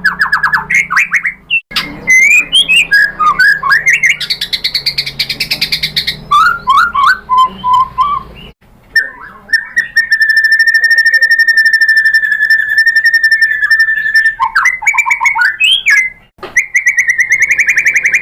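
White-rumped shama singing loudly: fast rattling trills and swooping whistled phrases, then a long steady high trill held for several seconds in the middle, and another fast trill near the end. The song breaks off abruptly twice, as if spliced.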